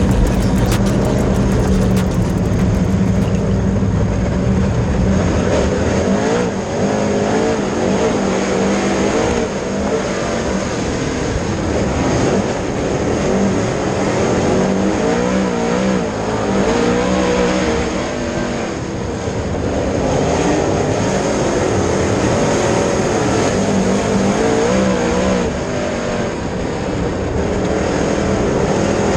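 Dirt late model race car engines running hard on track, the pitch rising and falling in waves every few seconds as they go through the turns and down the straights.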